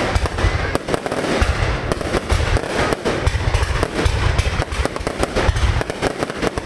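Aerial fireworks going off in quick succession: a continuous barrage of overlapping bangs and crackles with deep booms.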